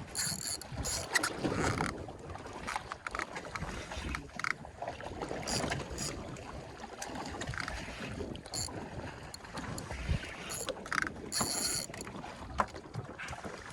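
Wind buffeting the microphone and water noise aboard a small fishing boat at sea, with scattered clicks and a few short hissy rattles.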